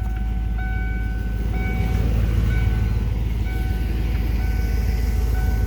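1992 Lincoln Mark VII LSC's 5.0-litre V8 idling just after a cold start, with the car's warning chime sounding a steady tone over and over, about once a second.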